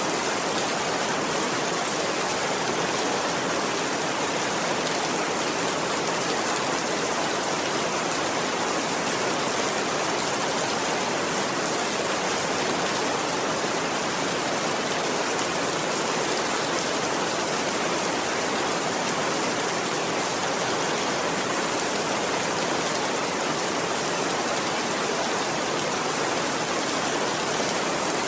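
Steady, unbroken rainfall: an even hiss with no single drops or thunder standing out.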